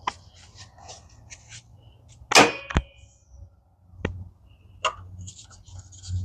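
Knocks and clanks of hard objects being handled, amid light scraping and rustling. The loudest is a clank about two and a half seconds in that rings briefly, with a quick second knock just after, then single knocks near four and five seconds.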